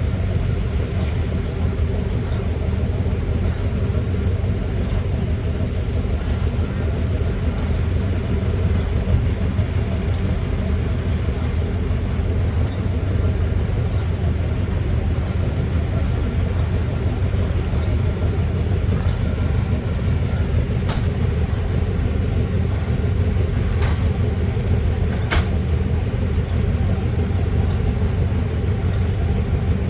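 Diesel-electric locomotive engine running steadily with an even, deep hum. Light ticks recur about once a second over it.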